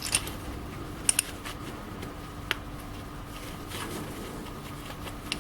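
A few small sharp metal clicks and light scraping as the spring retaining ring is worked off a car suspension ball joint, over a faint steady hum.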